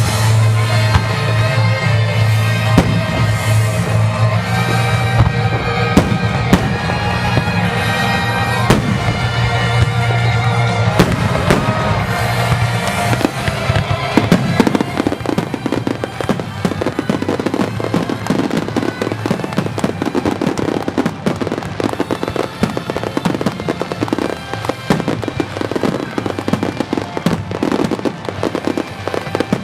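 Star mine fireworks bursting over music. About halfway through, the music fades under a dense, rapid barrage of bangs and pops as the finale volley takes over.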